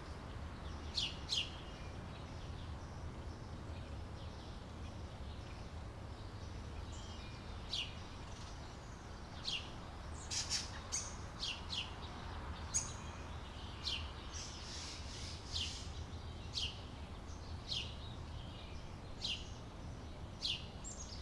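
Small birds chirping: short, high, falling chirps come at irregular intervals, about one a second in the second half, over a faint low steady rumble.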